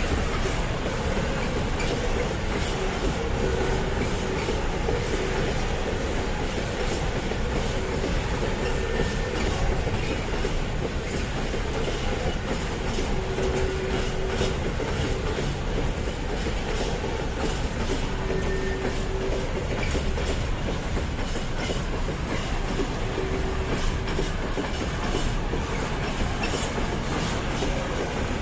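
A train rolling past at a steady pace, its wagon wheels clicking over rail joints and points over a continuous rumble, with a faint steady hum.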